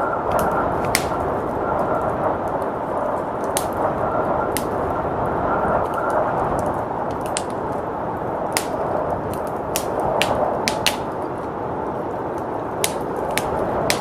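Fireplace crackling, with sharp pops scattered irregularly through it, over a steady rushing blizzard wind.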